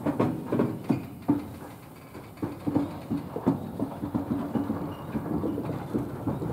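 Freight train of loaded flat wagons rolling slowly past, wheels clicking and knocking irregularly over the rail joints.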